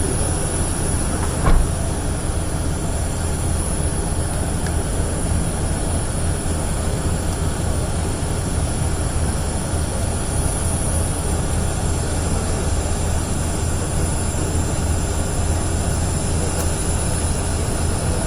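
Steady rumbling background noise with a low hum, holding level throughout, and a single short knock about one and a half seconds in.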